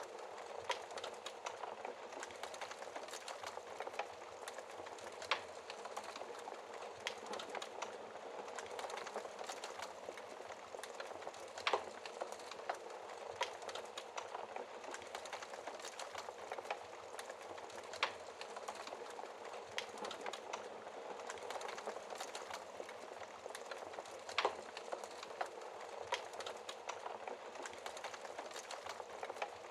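Wood fire burning in a fireplace: a steady low rush of flames with sharp crackles and pops from the burning wood every second or two, a few louder snaps among them.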